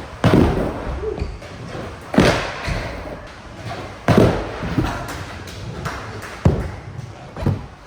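Skateboard knocking hard on the ground five times, about every two seconds, each knock followed by the rumble of wheels rolling.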